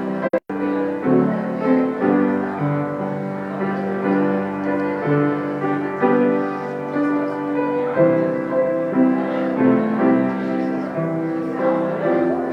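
Slow piano music: held chords and melody notes changing about once a second. The sound cuts out for a moment just after the start.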